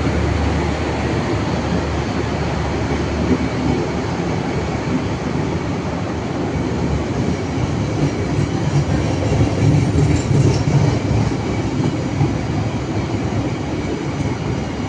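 A train running through the station, with a steady heavy rumble of wheels on the track that swells slightly about ten seconds in.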